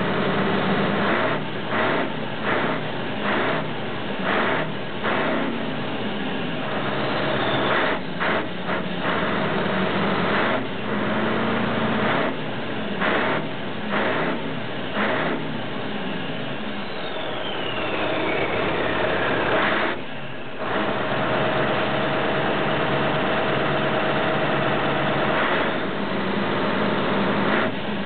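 Scania 143 truck's 14-litre V8 with a straight exhaust, blipped again and again in short revs from idle, then held steadier. A falling whine sounds about two thirds of the way through.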